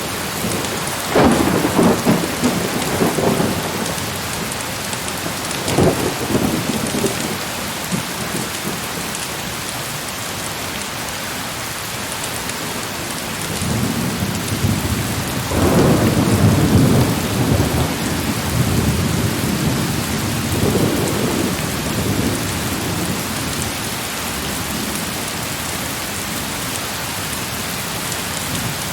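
Heavy rain falling steadily, with rolling thunder rumbling over it: a peal about a second in, a short one near six seconds, and a longer rolling spell through the middle of the stretch.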